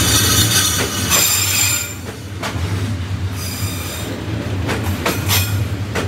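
Passenger train carriages rolling past at very close range over a steady low rumble. The wheels squeal in high tones through the first two seconds and again briefly in the middle, with a few sharp clacks.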